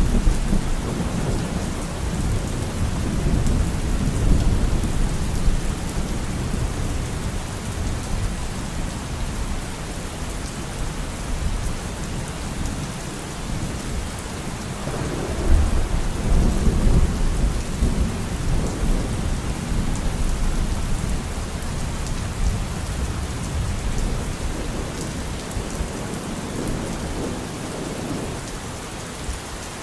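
Steady rain falling, with thunder rumbling low underneath; a roll of thunder swells up about halfway through and fades over several seconds.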